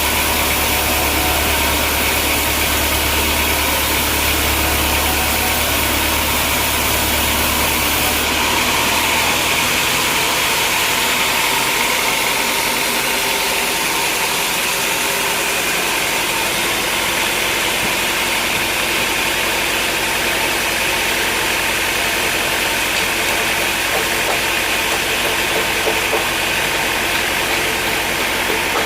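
Sawmill machinery running steadily with a dense mechanical drone and hiss. About eight seconds in, a low hum drops away and the rest runs on unchanged.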